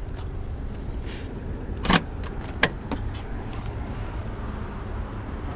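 Two sharp clicks about a second apart, then a few fainter ticks, over a low steady rumble.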